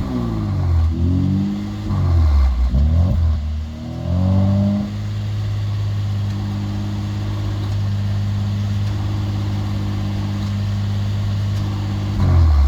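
Mercedes-AMG GLC 43's twin-turbo V6 through an aftermarket Ulter exhaust, revved in several quick blips that rise and fall, then running steadily at one engine speed for about seven seconds before another rev up near the end.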